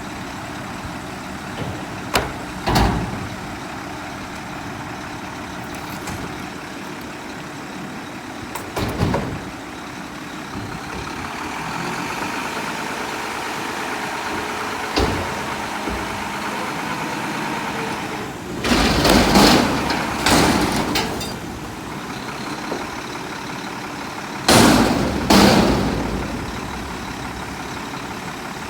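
Mack front-loader garbage truck with a Heil body, its diesel engine running steadily. The engine is broken by loud metal bangs and clatters: single knocks early and mid-way, and the heaviest clusters about two-thirds in and again near the end.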